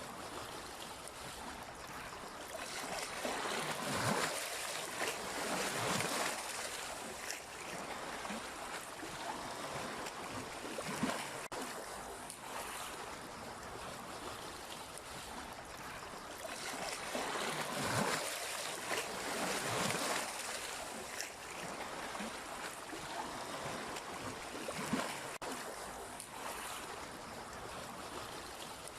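Sea waves washing in, a steady rush of water that swells louder twice, about four seconds in and again near eighteen seconds, with a few brief splashes between.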